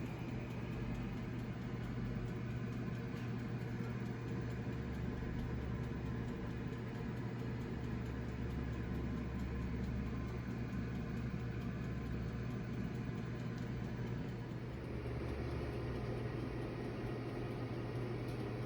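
A kitchen appliance running with a steady hum and an even whirring hiss, with no sharp events.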